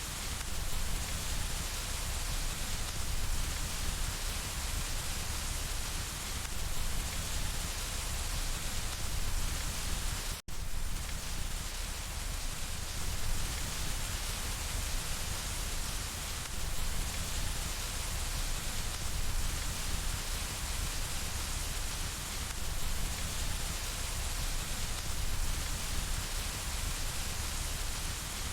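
Steady rain falling on window glass, an even hiss with a split-second dropout about ten seconds in.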